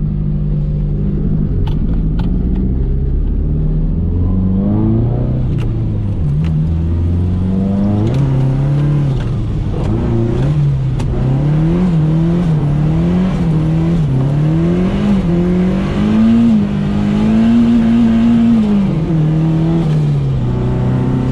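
Nissan 240SX (S13) drift car's engine heard from the cabin, revving up and down in quick repeated swells for several seconds, then held at higher revs for about two seconds before dropping back near the end.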